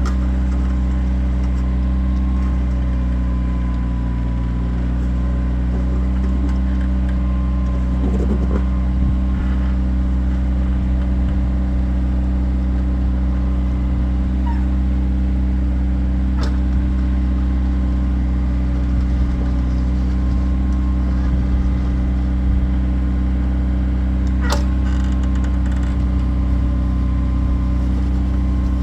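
Kioti tractor's diesel engine running at a steady speed, with a faint whine above it. Two sharp clicks or knocks, one about halfway through and one near the end.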